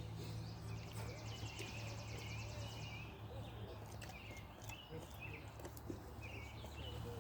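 Faint outdoor ambience of birds chirping, with a rapid high trill for the first three seconds, over a steady low hum.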